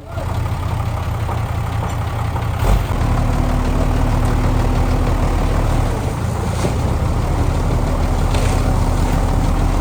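Heavy-equipment diesel engine running steadily with a low drone. There is a brief knock a little under three seconds in, after which the engine is slightly louder.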